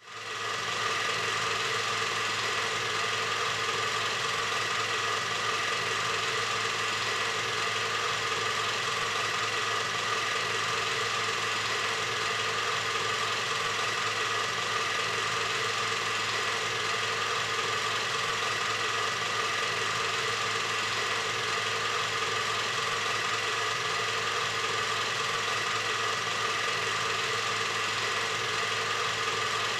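A steady mechanical drone of a running machine, even and unchanging, fading in over the first half second.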